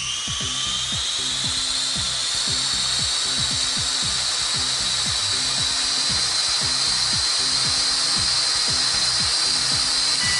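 Small MJX toy quadcopter's motors and propellers spinning up with a rising whine that levels off within the first second, then a steady high-pitched whine as the drone flies.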